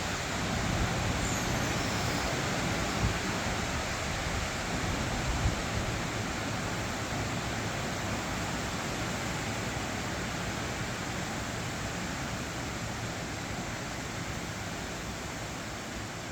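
Storm wind blowing in gusts, buffeting the microphone with low rumbles and a few sharp knocks in the first six seconds, then settling into a steadier rush that eases a little toward the end.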